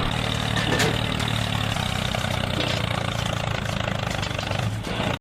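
Tractor engine idling steadily at a low, even pitch.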